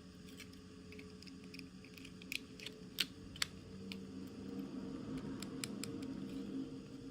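Light clicks and taps from small plastic toy pieces and packaging being handled, with a few sharper clicks a little before the middle, over a low steady hum.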